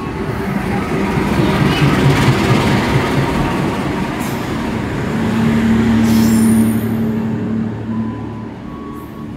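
Train passing through a station, a dense rumble of wheels on the rails, then a steady low hum from about five seconds in that fades near the end.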